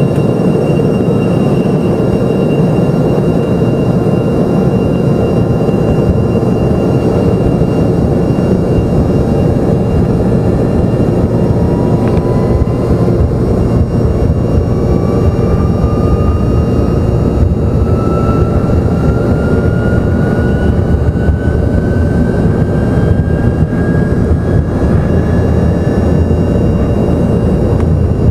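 Embraer ERJ-145's twin rear-mounted Rolls-Royce AE3007 turbofans running at high power, heard from inside the cabin as a loud, steady rumble with a high whine. From about twelve seconds in, a second whine climbs slowly in pitch.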